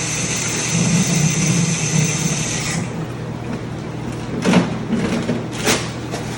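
Tap water running while a plastic measuring container is rinsed out, shut off about three seconds in. Then come two sharp knocks, a little over a second apart, of the container being handled, over a steady low hum.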